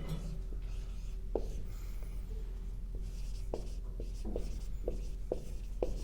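Writing on a board: a series of short squeaky and scratching pen strokes.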